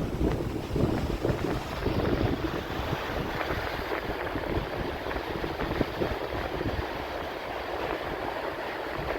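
Strong wind buffeting the microphone while cycling: a gusty, rumbling noise, heaviest in the first two seconds and then steadier.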